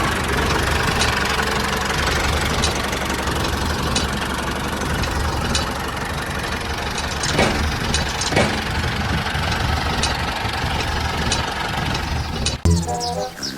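An engine running steadily at idle with a knocking rumble and a few scattered clicks. It cuts off suddenly near the end, where music begins.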